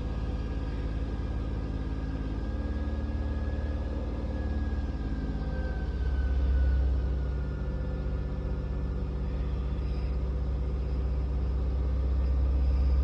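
2008 Dodge Caravan SXT's V6 engine idling in the cold just after a hard start: a steady low hum with a faint whine that slowly drops in pitch. The sound swells a little about six seconds in and again near the end.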